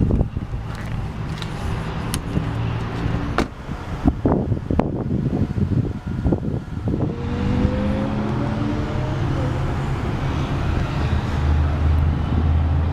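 Motor vehicle engine running steadily, with several sharp clicks and knocks in the first few seconds and the hum growing louder near the end.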